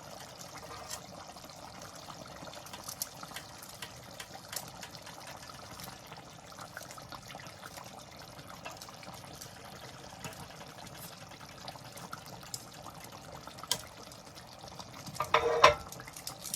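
A pot of tomato-based chicken gravy simmering, a soft steady bubbling with small scattered pops, as chicken is stirred into it. Near the end there is a louder clatter of a utensil against the pot.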